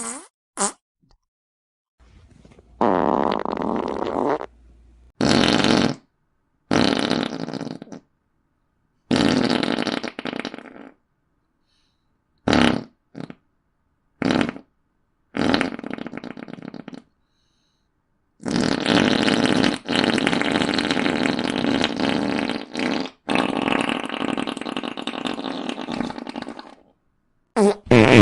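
Fart sound effects played one after another with short silent gaps, about a dozen in all. Some are quick pops and others are drawn-out ones lasting a few seconds, the longest two coming back to back in the last third.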